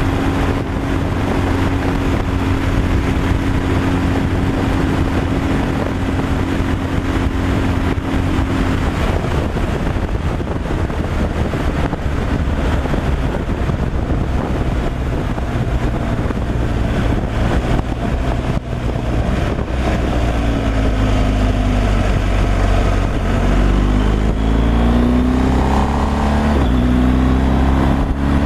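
Heavy truck's diesel engine running under way with steady road noise. In the last third the engine note rises and falls several times.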